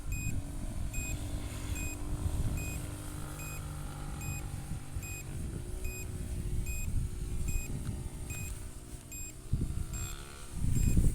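Low-battery warning beeps repeating about one and a half times a second over the steady hum of the SJRC F11s drone's motors, which shifts in pitch around the middle. Low wind rumble on the microphone swells near the end.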